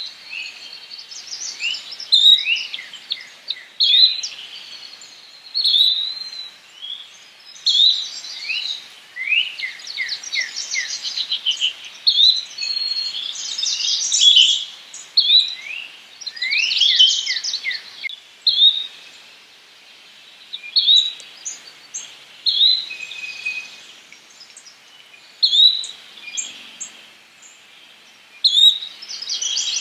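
Birdsong: short rising call notes repeated about every two seconds, as from a yellow-bellied flycatcher, with other songbirds adding quick runs of down-slurred notes in the middle.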